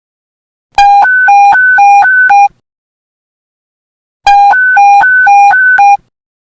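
Police panic button alert tone: a two-tone pattern of alternating low and high beeps, sounded in two bursts of under two seconds each, about three and a half seconds apart.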